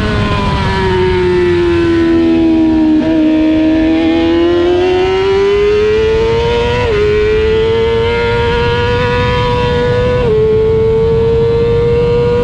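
Racing motorcycle engine heard onboard at high revs: the pitch sags over the first few seconds as the rider eases off, then climbs steadily under acceleration, with quick upshifts about seven and ten seconds in, each dropping the pitch before it rises again. Wind rushes over the microphone throughout.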